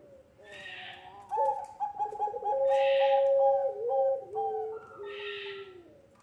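Puter pelung doves (a long-calling ringneck dove breed) cooing: long, drawn-out coos held on steady pitches that drop in steps at their ends, with calls overlapping. Three short breathy hisses come in between.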